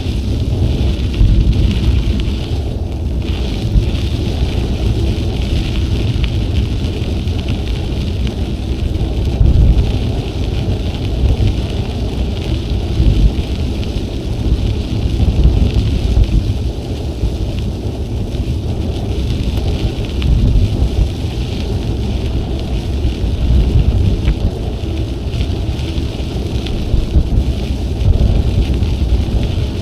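Wind buffeting the microphone of a cycling action camera: a loud, uneven low rumble with gusts, over a steady higher hiss of riding noise.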